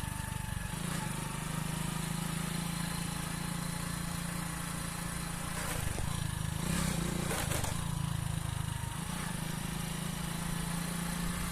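Hero Splendor motorcycle's single-cylinder four-stroke engine running while riding, its hum shifting in pitch a few times as the speed changes. There are a few sharp rattles or knocks a little past the middle.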